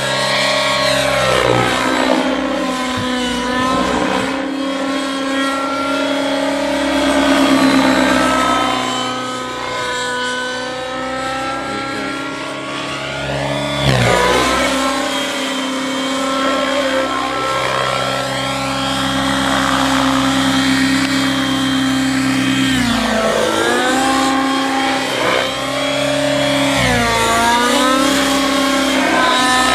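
Nitro-powered Synergy N9 RC helicopter in flight: its glow engine and rotors run at a steady high pitch. The pitch dips and recovers about halfway through and twice near the end.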